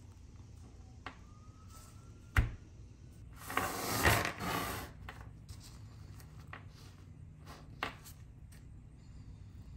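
Small metal screws clicking as a gloved hand sets them down and moves them on a work mat. There is a sharp click about two and a half seconds in, then a brief rubbing sweep of the hand across the mat, all over a low steady hum.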